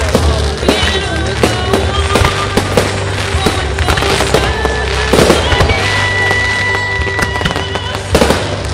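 Fireworks display going off in a dense run of bangs and crackles in quick succession, with a steady high tone held for about a second in the middle of the run.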